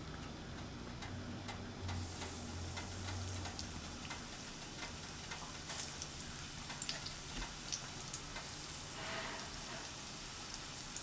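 Flour-coated chicken pieces sizzling in hot canola oil in a wok, with a steady hiss and many small pops and crackles. The sizzle gets louder about two seconds in.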